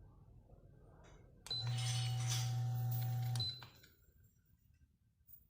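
Mallory electric fan's motor switched on for about two seconds: a strong steady mains hum with a hiss over it, a short high beep as it comes on and another as it cuts off.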